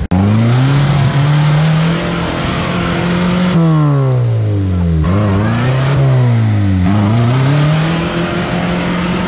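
Off-road vehicle engine revving hard. Its pitch climbs at the start, then drops and rises again several times as the throttle is worked.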